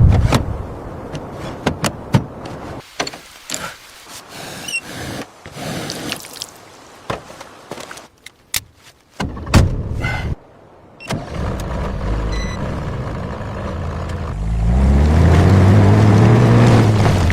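A run of short knocks and clunks, then about fourteen seconds in a heavy vehicle engine revs up and eases back down.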